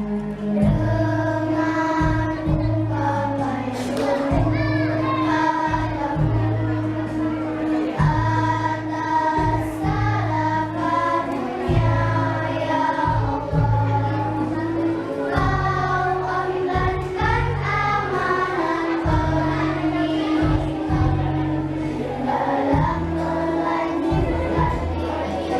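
Children's choir singing in unison over a backing accompaniment with a steady bass line that changes note about once a second.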